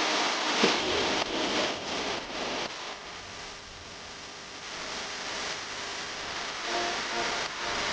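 Crinkly plastic rustling, like a kids' meal toy's plastic wrapper being handled, busiest in the first three seconds and softer after.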